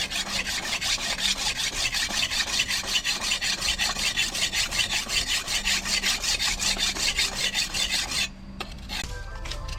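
Rapid back-and-forth hand abrasion, about five strokes a second, as a part of the old meat cleaver is filed or sanded by hand; the strokes stop about eight seconds in.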